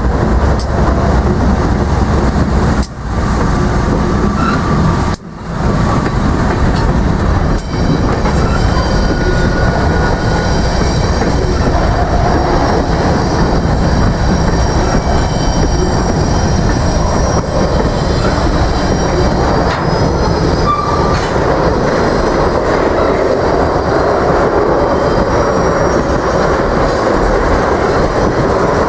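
A freight train passing close by: a steady, loud rumble and clatter of railcar wheels on the rails, with a few short wheel squeals.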